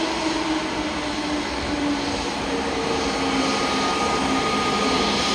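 Jet engines of a narrow-body airliner running, a steady rush of noise with humming tones that drift slowly down in pitch and a thin high whine coming in about midway.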